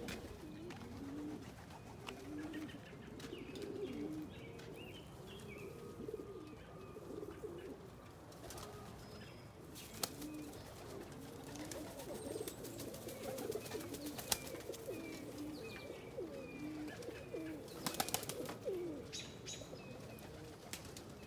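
Several domestic pigeons cooing over one another in a loft, with a few sharp clicks around the middle and near the end.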